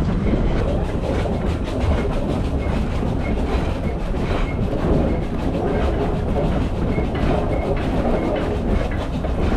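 Heritage steam train carriage running along the track, heard from aboard: a steady rumble with the wheels clicking over the rail joints.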